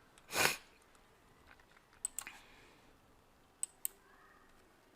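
Quiet computer clicks in close pairs, like mouse double-clicks, made while cutting and joining audio in an editor. A short rush of noise, like a breath, comes just under half a second in.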